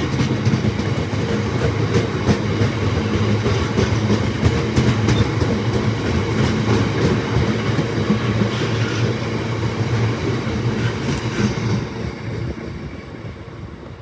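Locomotive-hauled train passing on the rails, a steady loud rumble with repeated wheel clicks over rail joints, fading away over the last couple of seconds.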